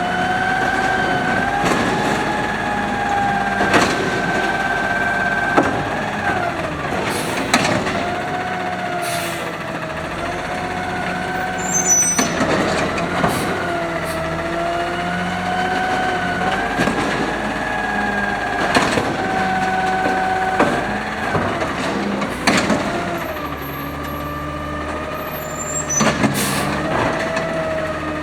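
2012 automated side loader garbage truck working its hydraulics: the engine revs up with a whine that rises, holds and falls back several times, broken by a number of sharp clanks and bangs from the arm and packer.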